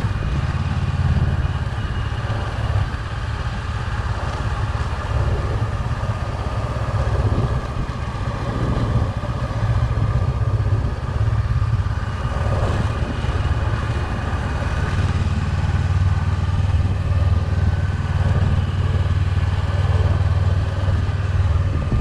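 Motorcycle engine running steadily while riding along a road, with a continuous low rumble of engine and wind.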